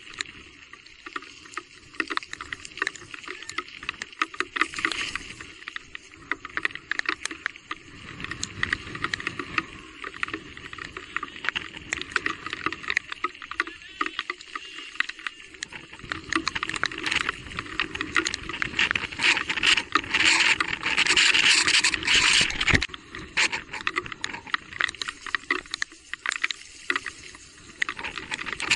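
Electric mountain bike ridden along a rain-soaked trail: tyres on wet ground and through water, with many small knocks and rattles, louder stretches a little past the middle.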